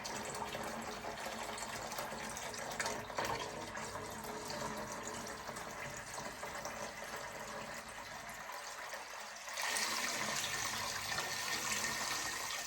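Water running steadily into a container as it is filled, turning louder and brighter about ten seconds in, then stopping.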